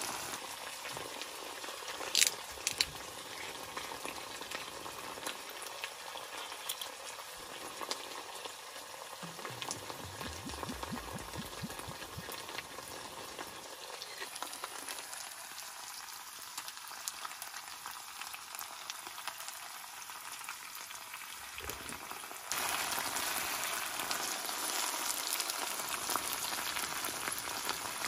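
Beef and bean sprouts sizzling and crackling in a pan on a portable gas stove, with two sharp clicks about two seconds in. The sizzle gets louder about three quarters of the way through, as the food is stirred with chopsticks.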